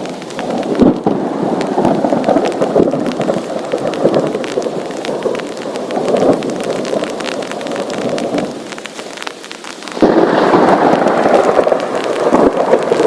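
Heavy rain pouring down, a dense steady hiss with many sharp drop impacts. It dips briefly and then surges louder about ten seconds in.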